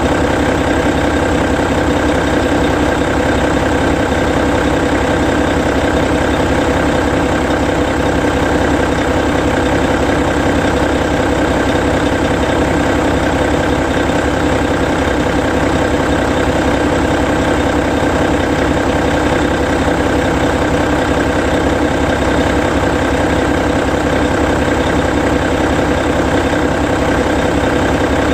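Hino E13C 12.9-litre inline-six diesel engine of a Hino Selega bus idling steadily while parked.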